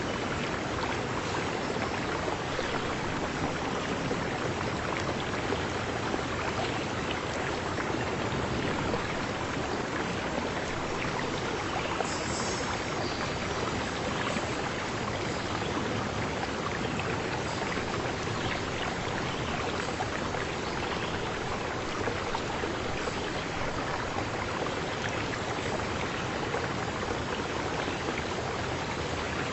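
Stream water running steadily, an even rushing and splashing with no let-up.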